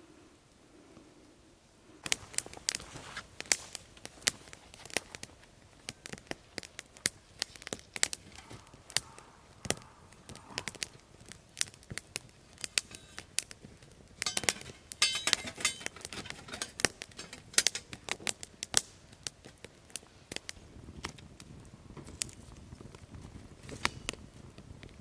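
Wood fire crackling, with many irregular sharp pops that begin abruptly about two seconds in and come thickest around the middle.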